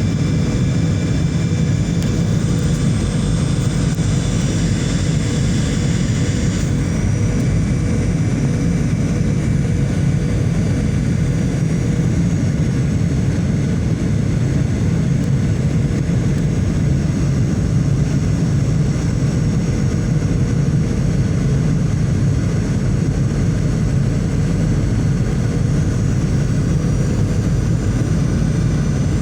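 Steady, loud engine and air noise inside a passenger airliner's cabin in flight, a constant low rumble and rush.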